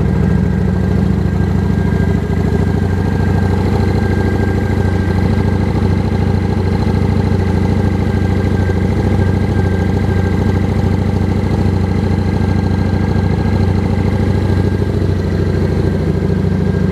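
A 2007 Kawasaki Vulcan 900's V-twin engine idling steadily.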